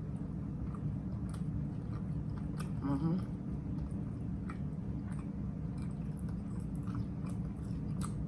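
Close-up chewing of a mouthful of chopped grinder sandwich, with scattered wet mouth clicks and crackles over a steady low hum. A brief hummed sound comes from the eater about three seconds in.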